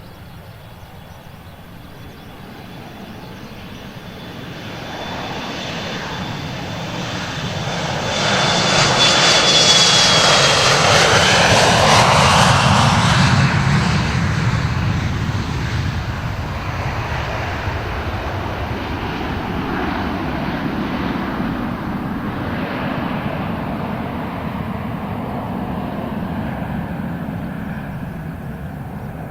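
A jet airliner, an Embraer E-Jet of Fuji Dream Airlines, passing by with its engines at high power. The roar builds over several seconds and is loudest for a few seconds near the middle, where a high fan whine drops in pitch as the plane goes past. A lower rumble then lingers as the plane moves away.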